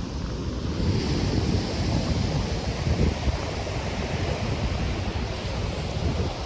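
Caribbean surf breaking and washing on the beach, with wind buffeting the microphone in a low rumble. About a second in, a higher hiss swells up and stays.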